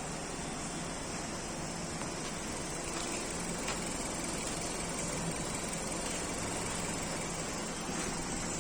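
A vehicle engine idling steadily at an even pace.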